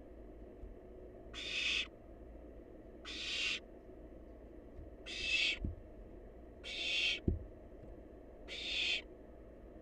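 Barn owl nestling giving its rasping, hissing 'snore' food-begging call: five breathy half-second hisses, each swelling in loudness, about one every second and a half. Two soft low knocks come in the second half.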